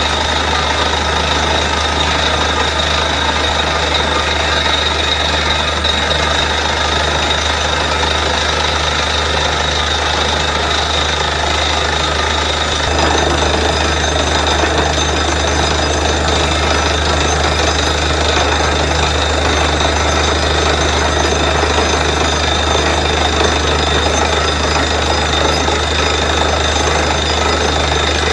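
Borewell drilling rig running steadily under load: a constant low hum with a high whine over a rough hammering noise, which grows louder about halfway through.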